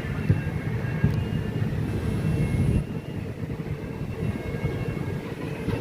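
Train running, heard from on board: a steady low rumble with occasional sharp knocks. The sound drops a little about three seconds in.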